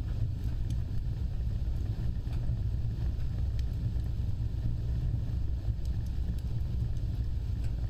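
Wood fire burning, its flames giving a steady low rumble with scattered faint crackles and pops.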